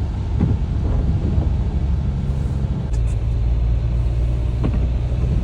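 Car driving, heard from inside the cabin: a steady low rumble of engine and road noise, which changes note about three seconds in.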